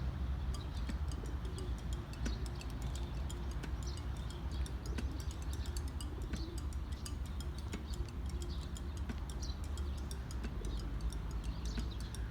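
Small birds chirping in short calls, with many quick sharp clicks and taps among them, over a steady low rumble.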